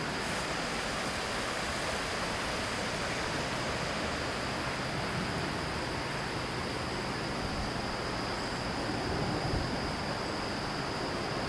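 Shallow river rapids rushing steadily over rocks, a continuous even wash of water, with a steady high insect drone above it.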